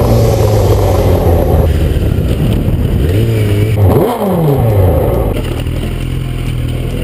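2003 Yamaha YZF-R1's inline-four engine running on the street, its pitch falling and rising twice as the revs change. From about five seconds in it settles to a steady idle.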